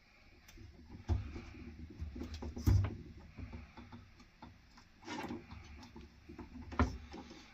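Scattered light knocks and clicks of objects being handled in a small cabin, with a few louder knocks about a second in, near three seconds in and near the end, over a low rumble.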